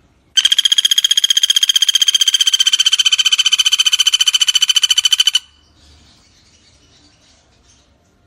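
Pelatuk bawang woodpecker giving its rattling call: a fast, even run of about a dozen sharp notes a second, lasting about five seconds and stopping abruptly.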